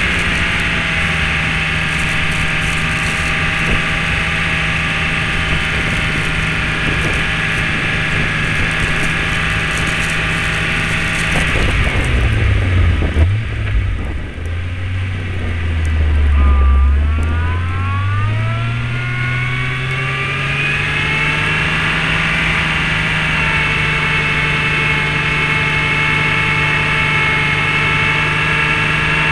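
Jeep Grand Cherokee engine running at steady revs while plowing deep snow. A little under halfway through there is a rough, noisy scraping stretch as the plow drives into the snowbank, and the engine drops to low revs. Over a few seconds the revs then climb back up to a steady pitch.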